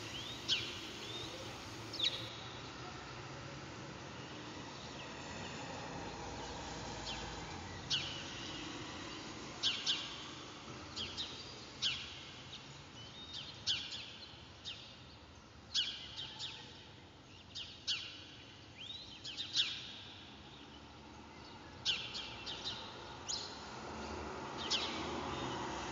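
Wild birds chirping in short, sharp, scattered calls, about one every second or two, over a faint steady outdoor background.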